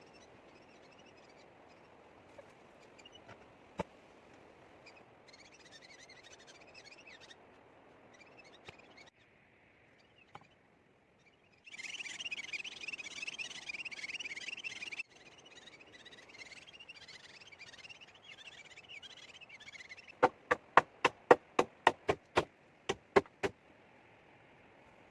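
A rapid series of about a dozen sharp knocks, roughly four a second, near the end, after a stretch of quieter background.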